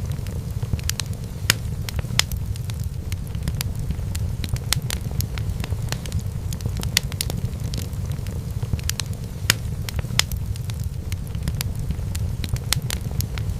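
Wood fire in a fireplace burning steadily, with a low rumble of flame and irregular sharp crackles and pops.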